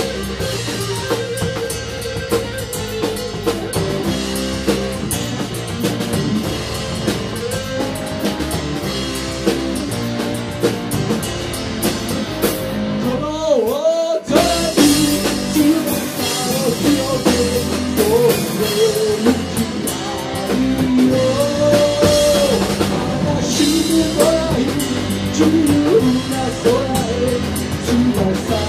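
Band music with drum kit and guitar playing a rock arrangement of a folk song, with a brief drop-out of the drums and bass about fourteen seconds in.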